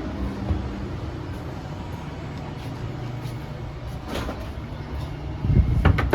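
Steady low rumble inside a KTX-Cheongryong high-speed train carriage, with a click about four seconds in and a few heavy knocks near the end.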